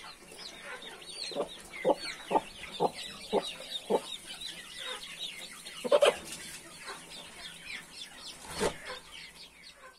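Mother hen clucking low and evenly, about two clucks a second for a few seconds, then louder clucks twice more, over the constant high peeping of a large brood of newborn chicks.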